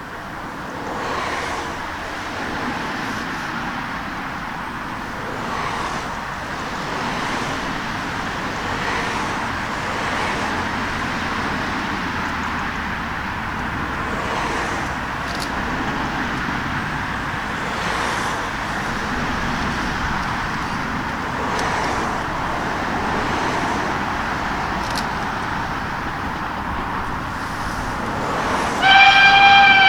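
Steady rushing noise, then about a second before the end a steam locomotive's whistle blows loudly, a single held note that rises slightly as it starts.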